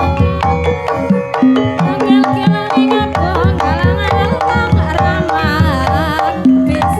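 Javanese gamelan music in Banyumasan style: hand-drum strokes and struck metallophone notes keep a steady beat. A wavering, ornamented melody line rides over them from about two seconds in until shortly before the end.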